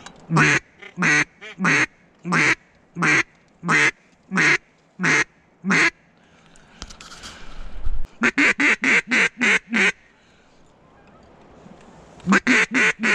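Duck call blown in a series of mallard-hen-style quacks: nine evenly spaced quacks over about six seconds, then after a short breathy pause a faster run of seven quacks, and another fast run starting near the end.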